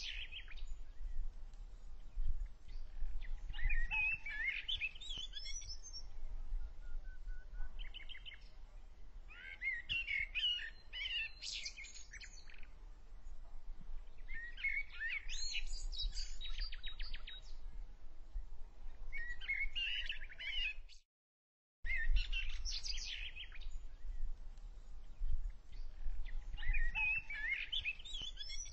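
Small birds singing in short bursts of quick chirping, warbling phrases every few seconds, over a low steady rumble. The sound cuts out completely for about a second, about 21 seconds in.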